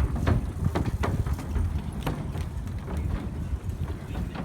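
Bicycle ride: low wind rumble on the microphone, with irregular sharp clicks and rattles from the rolling bike.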